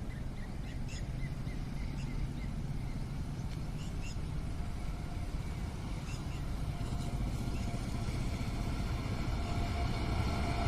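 WAG-9 electric locomotive approaching with a container train: a low rumble growing steadily louder, with a steady whine coming in about halfway. A few short high chirps sound in the first four seconds.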